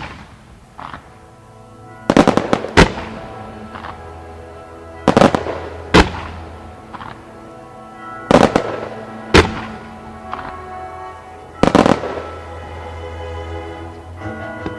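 Starmine fireworks shells bursting with loud sharp bangs, mostly in pairs about a second apart and recurring every three seconds or so, over music played along with the display.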